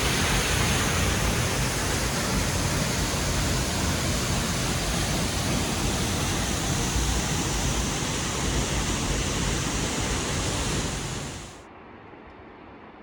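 Loud, steady rush of fast-flowing water that cuts off suddenly near the end.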